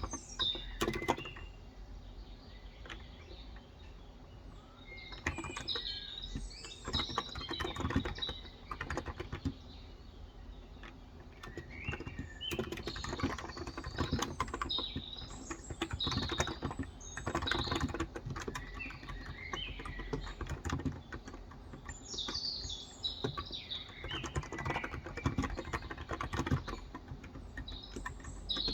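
Typing on a Cox Endeavor electro-capacitive (Topre-style) tenkeyless keyboard with light 35 g switches: runs of soft keystrokes, sparser early on and denser in the middle and near the end. Birds chirp and twitter in the background with short high calls throughout.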